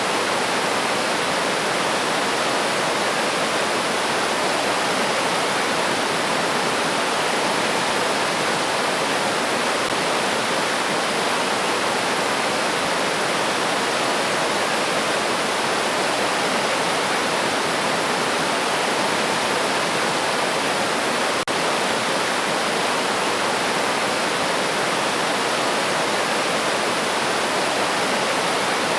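River water flowing steadily, an even, unbroken hiss.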